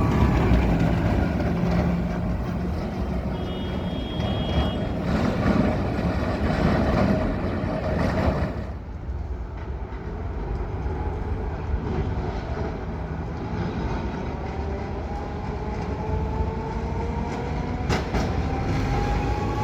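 Milan ATM Series 1500 Peter Witt tram running on its rails, with a motor whine that rises steadily in pitch over the last few seconds as it picks up speed.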